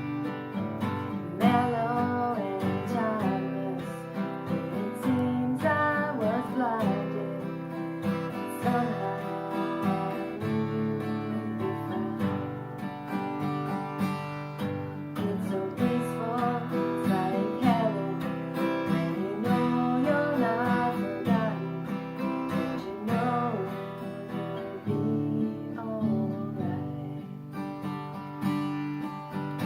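Live acoustic performance: an acoustic guitar strummed in steady chords under a woman's singing voice.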